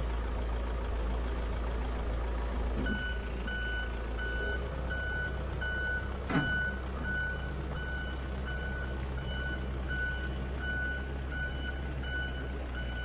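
Backhoe engine running steadily while its reversing alarm beeps about twice a second, starting about three seconds in. A single knock sounds about six seconds in.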